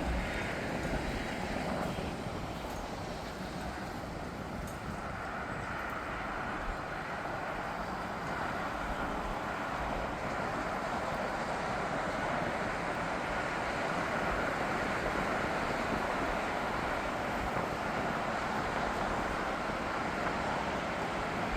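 Steady rush of distant jet airliner engines, with a louder low rumble dying away at the very start.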